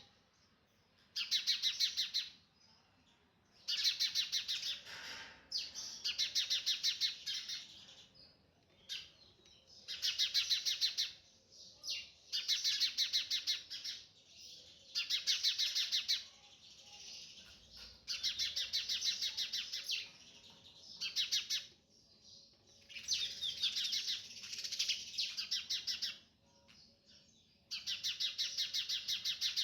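A sunbird singing in repeated phrases, each one to two seconds long and made of a rapid run of high notes, with short pauses between phrases.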